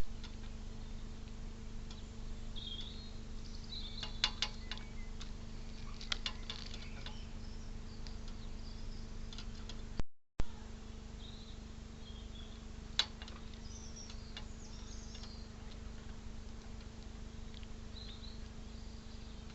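Short, high bird chirps here and there, with a few sharp taps about four and six seconds in and once near the middle, over a steady low hum.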